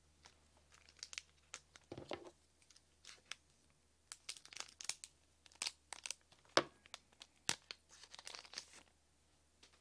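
Foil wrapper of a Japanese Pokémon card booster pack being torn open and crinkled: a scattered run of short rips and crackles, busiest in the second half.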